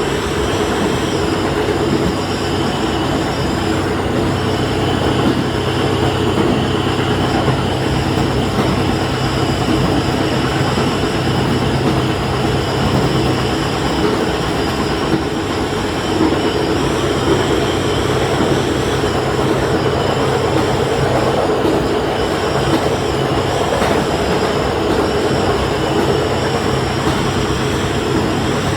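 Diesel railcar running along the line, heard from inside at the front: a steady engine hum under continuous rail and wheel noise.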